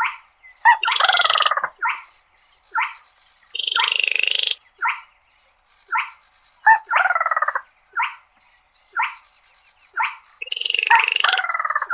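Baillon's crake calling: short clipped notes repeated about once a second, broken by longer, harsher rattling calls that fall in pitch, about four times.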